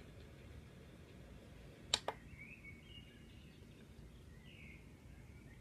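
Nursal white noise machine: a sharp double click about two seconds in, then faint bird-like chirps from its speaker over a low hiss.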